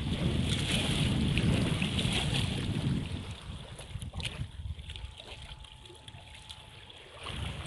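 Wind rumbling on the microphone, easing off about three seconds in to a quieter hiss with a few small clicks.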